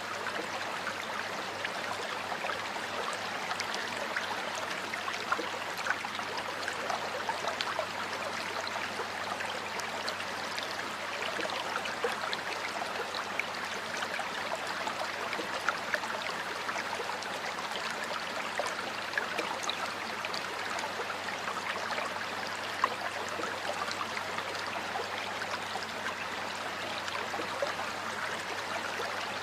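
Stream water flowing steadily over rocks, a continuous babbling rush with many small splashes and drips standing out here and there.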